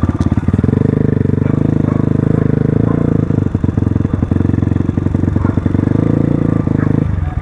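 Crossfire RM250 dirt bike engine, just started, running at a steady raised speed with an even firing beat, then dropping back to a slower beat near the end.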